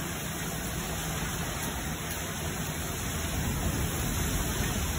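Heavy rain pouring down in a storm, a steady hiss of rain falling on paving and water.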